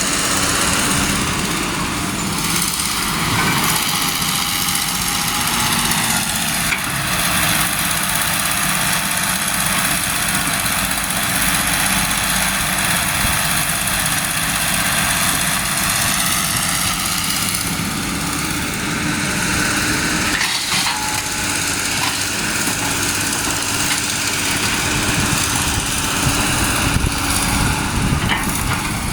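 Truck engines running steadily, with a loud hiss over the engine sound.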